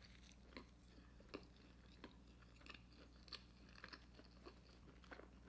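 Faint close-up chewing of a McRib sandwich, with soft, irregular wet mouth clicks.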